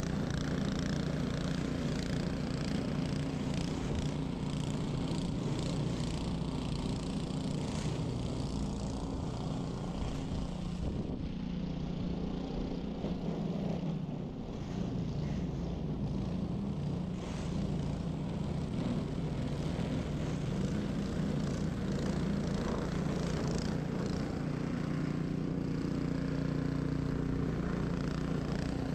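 Ariens 21-inch professional snow blower's engine running steadily under load while clearing snow, with a brief dip in level about halfway through.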